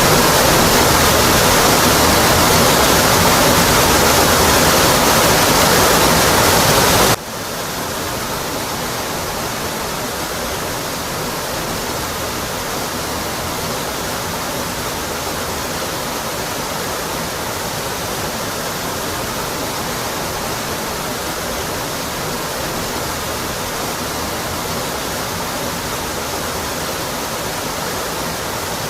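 Steady rushing of a waterfall, water pouring down a rock face. About seven seconds in it drops suddenly to a quieter, thinner rush with less low end, which then holds steady.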